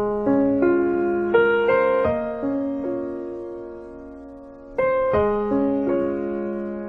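Background piano music: a gentle phrase of single notes that ring and slowly fade, with a new phrase starting about five seconds in.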